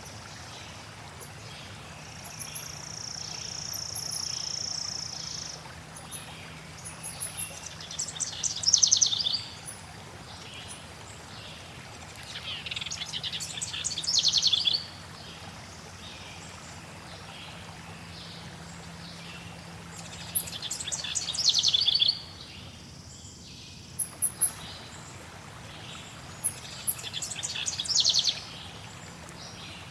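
Forest birds singing over a steady hiss of flowing water. A bird repeats a song of rapid high notes that builds in loudness, four times about six to seven seconds apart. A long high held note comes a few seconds in, and faint very high chirps fall in between.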